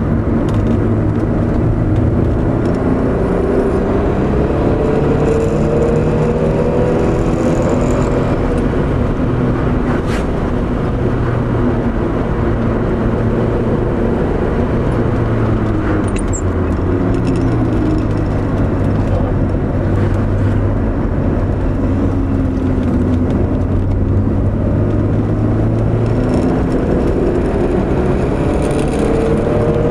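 Porsche engine heard from inside the cabin while driving, its pitch rising and falling again and again as the car accelerates and eases off through the bends, over steady road noise.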